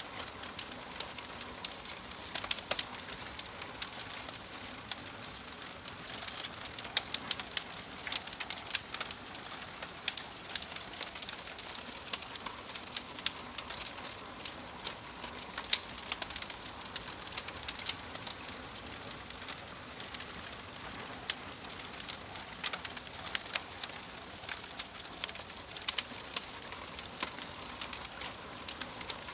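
Wood fire crackling in a fireplace: frequent sharp, irregular pops and snaps over a steady soft hiss.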